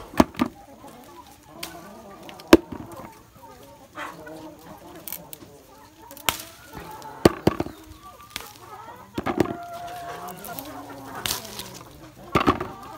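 Chickens clucking steadily, with a rooster crowing among them. Sharp clicks and snaps are scattered through it, the loudest a little over two seconds in.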